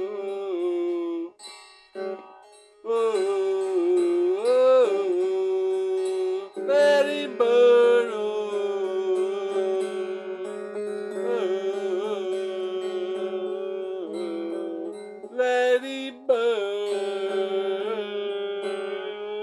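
Wordless sung vocalising: long held notes that slide up and down in pitch, over acoustic guitar, with a short break about two seconds in.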